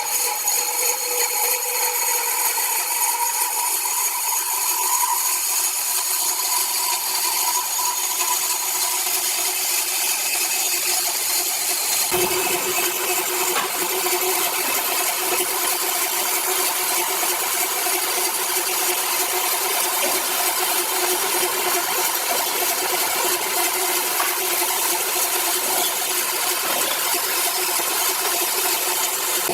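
Power saw cutting steadily through a large log, a continuous high hiss with a held whine. About twelve seconds in the sound changes abruptly, with a lower hum coming in and the pitch of the whine shifting.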